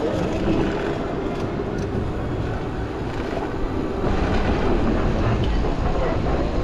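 Toronto streetcar running close by in street traffic: a steady rumble with a faint hum through it.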